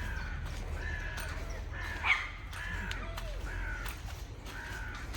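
Birds calling over and over in short, repeated calls, with one louder call about two seconds in, over a steady low rumble.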